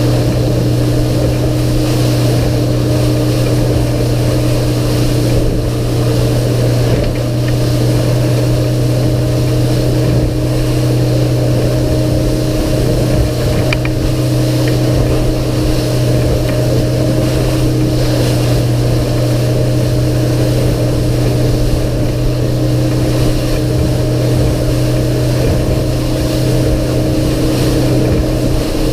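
The outboard motor of a 2016 Sea Pro 228 Bay boat running at a steady speed under way, a constant low drone. Wind and rushing water noise run under it.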